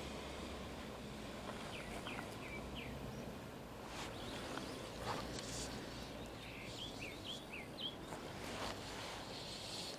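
Steady outdoor background hiss with a small bird giving short falling chirps in two groups, one near the start and one after about seven seconds. A couple of sharp clicks sound around four and five seconds in.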